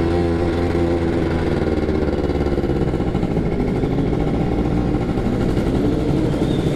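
Yamaha F1ZR two-stroke motorcycle engine idling steadily in neutral, with a fast, uneven flutter.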